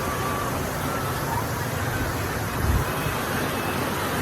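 Steady rushing outdoor noise with wind buffeting the microphone, a louder gust about two-thirds of the way through.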